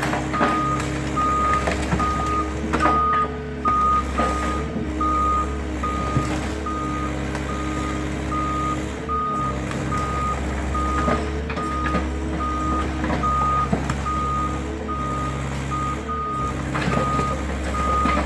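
Heavy-machine backup alarm beeping steadily, about one and a half beeps a second, over the steady drone of an excavator's diesel engine, with a few scattered knocks.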